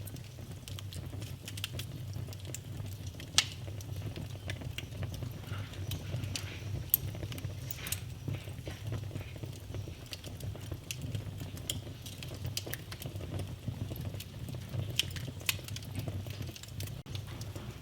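Wood fire in a fireplace crackling over a steady low rumble, with irregular sharp pops; the loudest pops come about three and a half and seven seconds in.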